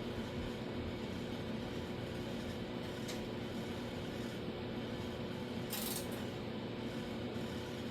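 Socket ratchet driving a knurled-wheel panel flanging tool along a steel door-skin flange: a sharp click about three seconds in and a short metallic rasp just before six seconds, over a steady background hum.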